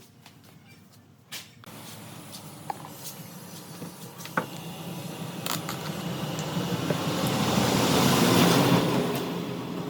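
A power tool running, a steady hum with a hiss over it that builds for several seconds and eases near the end. A knock about a second in comes before it starts, and there are a few sharp clicks while it runs.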